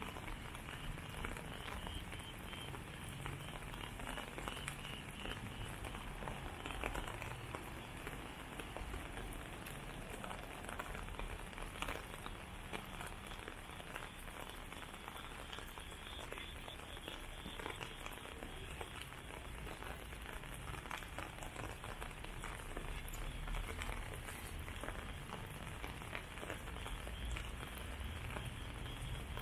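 Steady rain falling on wet paving and garden plants, a dense patter of drops.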